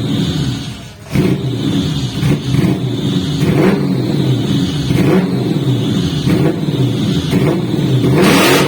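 Toyota 1UZ-FE V8 with a straight-through exhaust, revved repeatedly. The revs drop briefly about a second in, then climb and fall in a series of blips, with a louder rasping burst near the end.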